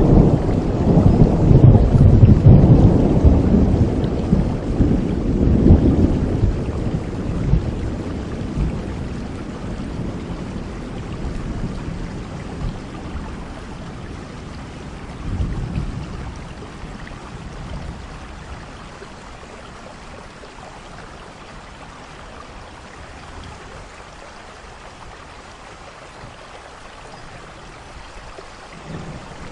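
Thunder rolling over steady rain: a long, loud, low rumble in the first several seconds that slowly dies away, a shorter rumble about halfway through, then only the steady hiss of rainfall.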